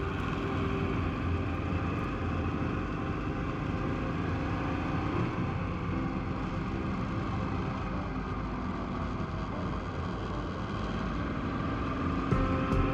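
Honda PC800's V-twin engine running under way with wind rush, its pitch shifting a few times as the throttle changes.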